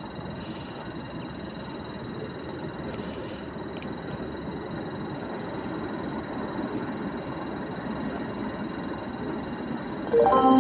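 Steady rumble of a train on the line, slowly growing louder. Near the end the SNCF station announcement chime starts, a short run of bright notes that comes before a platform announcement.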